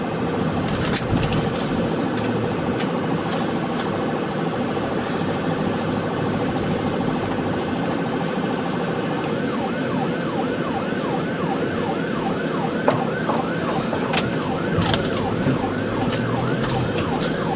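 Patrol car's engine and road noise inside the cabin, and from about nine seconds in its siren in a fast yelp, about three rising-and-falling cycles a second. Occasional sharp clicks over the top.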